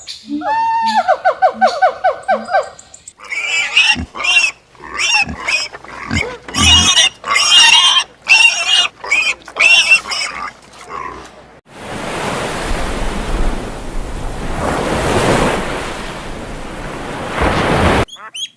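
Animal calls in three stretches. First a fast pulsing trill, then several seconds of short, high squealing calls, then a steady rushing noise like running water that cuts off just before the end.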